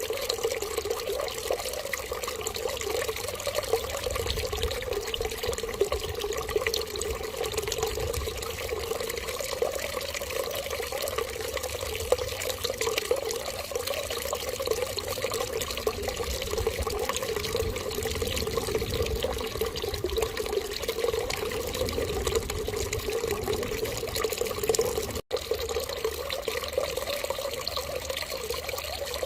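Steady, continuous running water, an even trickling flow, with a split-second gap about 25 seconds in.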